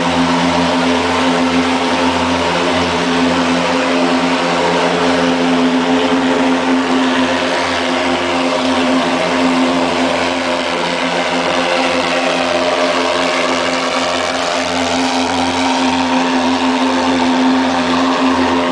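Mosquito fogging truck running its insecticide fogger: a loud, steady, droning engine-like noise with an even pitch and a wide hiss.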